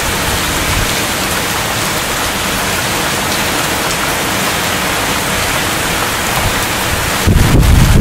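Heavy rain falling steadily in a thunderstorm, with a loud low rumble of thunder starting near the end.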